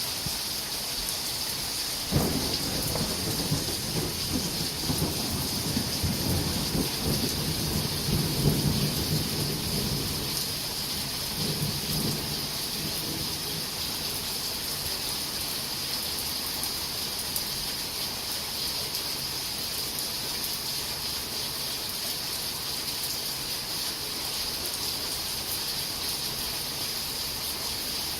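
Steady rain falling, with a roll of thunder that breaks suddenly about two seconds in, rumbles for about ten seconds and fades out.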